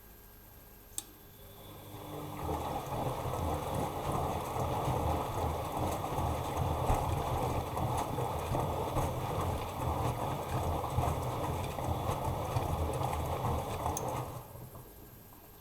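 Bosch Maxx Advantage WFCX2440 slimline washing machine tumbling the wash. A single click comes about a second in; the motor starts about a second later and the drum turns, churning the laundry and water with a low rumble, for about twelve seconds. Then it stops.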